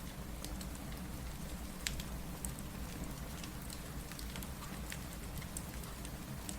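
Steady rain with a wood fire crackling over it: scattered sharp pops, one louder about two seconds in.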